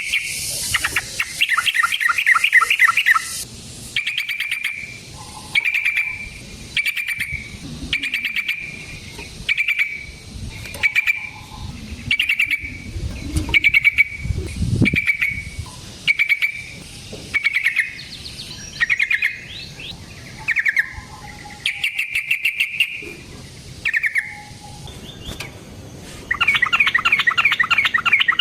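Yellow-vented bulbul (trucukan) singing: a long rapid trill, then a run of short bubbly phrases about once a second, and another long rapid trill near the end.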